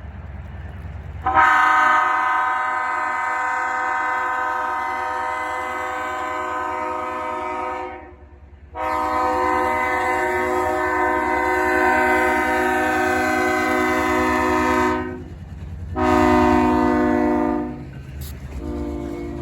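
Locomotive air horn sounding several notes at once in the grade-crossing pattern: two long blasts, a short one, then a final long one starting near the end, over a steady low rumble from the passing train.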